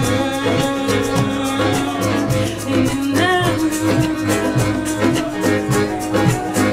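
A band playing a song: guitar over a steady beat, with a short sung or gliding note about three seconds in.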